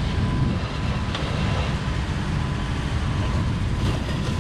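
Steady low rumble of running engines, with no distinct events.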